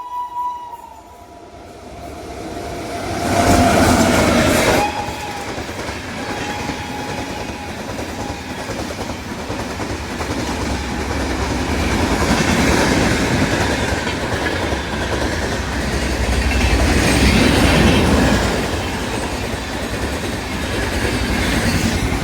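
Indian Railways train horn sounding for about a second and a half, a few seconds in. Then the train passes at speed: a steady rumble with clickety-clack of wheels over rail joints that swells twice.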